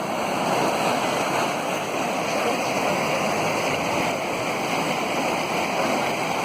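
Heavy rain pouring down: a steady, unbroken rush of falling and running water.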